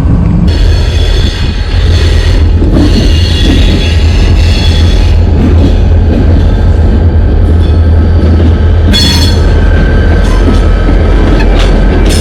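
Freight train rolling past close by: a steady heavy rumble of railcars on the track, with the wheels squealing high on and off, strongest near the start and again near the end.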